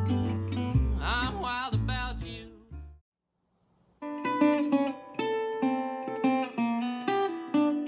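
Background music on guitar: one piece ends about three seconds in, and after a second of silence a new piece of picked guitar notes begins.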